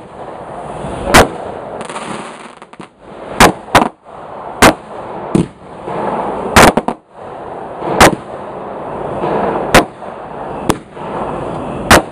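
Consumer fireworks cakes firing, with about ten sharp bangs at uneven intervals of roughly one to two seconds as shells burst overhead. A continuous rushing hiss runs between the bangs.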